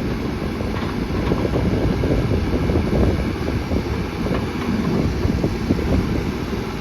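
Case 580N backhoe loader's diesel engine idling steadily, a low rumble with wind noise on the microphone.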